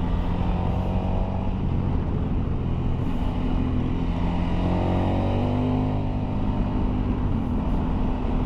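Motorcycle engine running while the bike is ridden along a winding road, with wind rushing over the microphone. The engine note dips and then rises again about halfway through.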